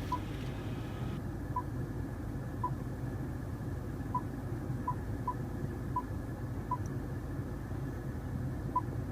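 Short electronic confirmation beeps from the Range Rover Evoque's climate control and heated/ventilated seat buttons as they are pressed, about nine single beeps at uneven intervals, over a steady low cabin hum.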